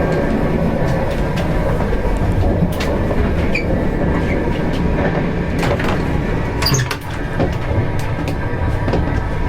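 Enterprise passenger train running on the rails: a steady low rumble with scattered clicks and knocks from the wheels and carriage.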